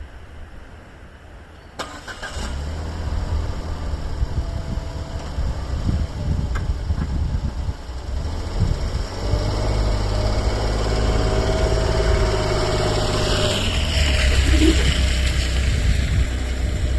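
A small kei van engine starting about two seconds in, then running steadily, growing louder about nine seconds in.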